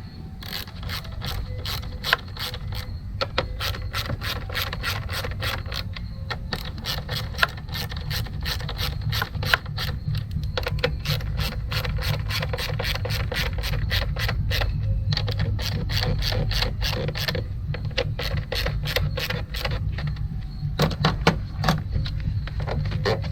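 Hand ratchet with a 10 mm socket clicking as the fuse box bolts are run down, in runs of quick clicks broken by short pauses. A steady low rumble runs underneath.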